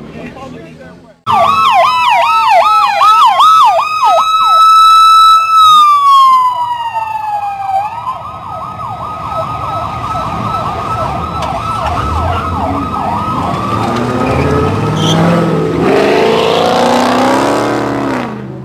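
Electronic emergency-vehicle siren cutting in suddenly about a second in: rapid yelping sweeps, then a held high tone that slides down, then a faster yelp for the rest. Mixed street noise builds under it near the end.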